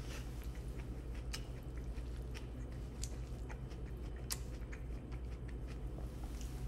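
Close-up chewing of a mouthful of rice, steak and lettuce, with a scattering of sharp crunchy clicks, over a steady low hum.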